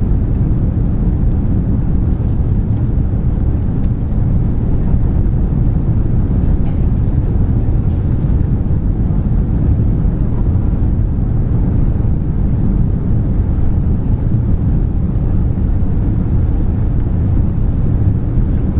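Steady low rumble of airflow and jet engines inside the cabin of an Airbus A340 on final approach with flaps extended, holding an even level throughout.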